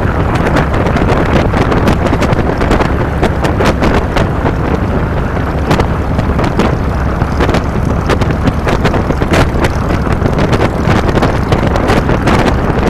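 Wind buffeting the microphone of a handlebar-mounted camera on a moving motorcycle, with frequent crackling gusts, over the steady running of a 2007 Harley-Davidson Fat Boy's Twin Cam 96 V-twin engine.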